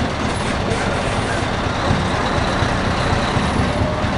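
Scania V8 truck engine running steadily, a deep low hum under a dense noise of traffic.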